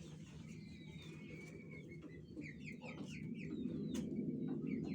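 Young chicks peeping: many short, high, falling cheeps, busiest in the middle of the stretch, over a steady low rumble.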